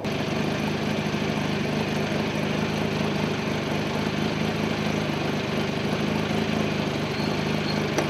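Jaguar XJ220's twin-turbo V6 idling steadily, with a small click near the end.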